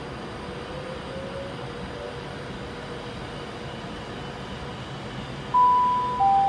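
Class 390 Pendolino electric train pulling away with a steady rumble of wheels on rail and a faint whine that rises slightly. Near the end a two-note falling chime sounds over the station PA, the loudest thing here: the signal that an announcement follows.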